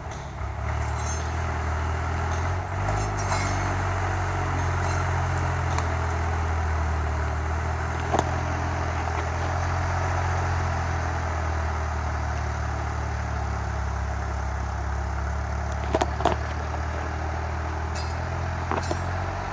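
Motor vehicle running steadily, a low engine hum under a haze of road noise, with a few sharp clinks and knocks, about halfway through and twice near the end.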